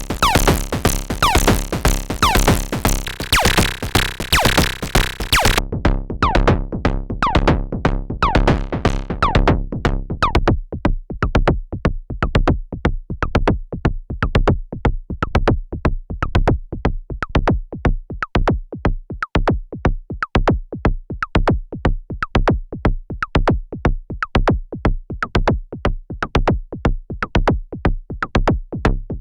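Semi-modular analog drum synthesizer playing a fast, steady sequenced percussion pattern. About six seconds in the top end drops away, and a few seconds later the sustained tone underneath cuts out, leaving short, clicky hits in the same rhythm.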